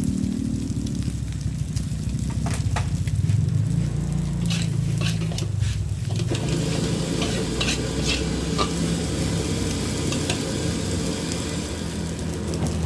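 Nasi goreng frying in a wok: a metal spatula stirs, scrapes and knocks against the pan over a steady sizzle. The sizzle swells about halfway through. A low steady rumble runs underneath.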